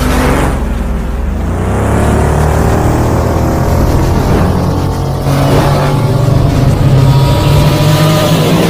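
A vehicle engine revving over a deep steady rumble, its pitch sweeping upward several times and holding high near the end.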